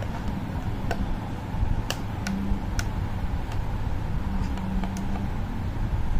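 Steady low background rumble with a handful of small, sharp clicks and taps, spread unevenly, as parts are handled during hot-gluing.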